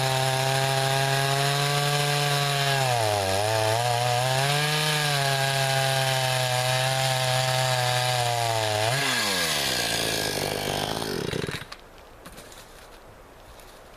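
Chainsaw running at high speed, cutting pecan wood. Its pitch dips briefly about three seconds in. Near the end the engine revs briefly, then falls in pitch and stops, with quiet after about eleven and a half seconds.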